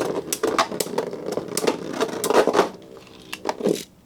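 Beyblade spinning tops whirring in a stadium and clashing in rapid sharp clicks and knocks; about three seconds in the whirring dies away as the battle winds down.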